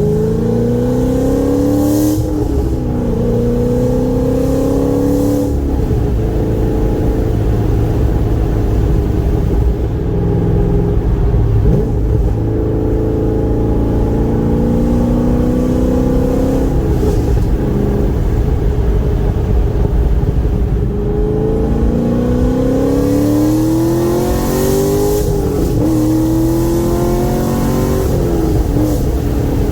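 Car engine accelerating through the gears, its pitch climbing and dropping back at each shift, several times over, over steady road and engine rumble.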